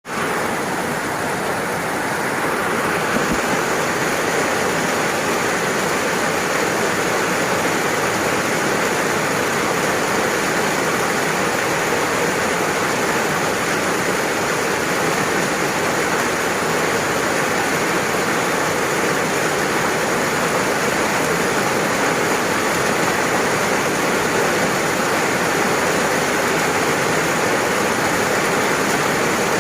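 Steady rainfall, a dense even hiss of falling water that fills out in its higher range about three seconds in.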